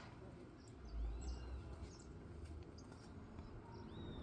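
Small birds chirping, with short high calls and a couple of arching whistles, over a low outdoor rumble. There is a brief gust of wind on the microphone about a second in.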